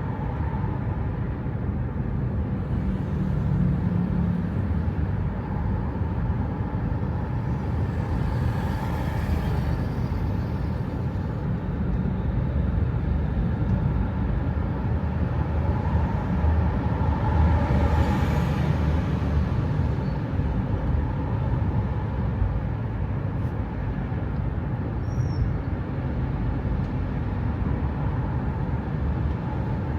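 Steady road-vehicle and traffic noise: a continuous low rumble, with two louder swells about nine and eighteen seconds in.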